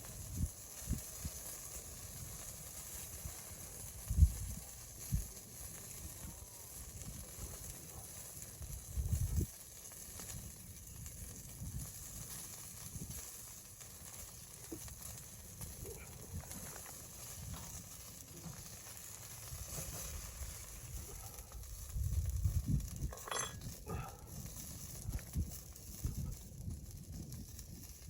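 Scattered low thumps and knocks, irregular and strongest about four seconds in, around nine seconds and near 22–23 seconds, over a steady faint high hiss.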